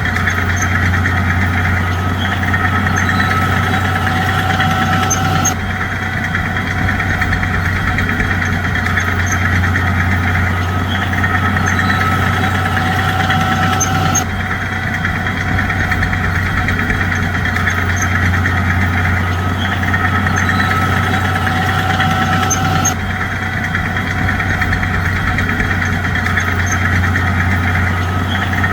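Bulldozer's diesel engine running steadily with a low, even drone, dipping briefly about every nine seconds.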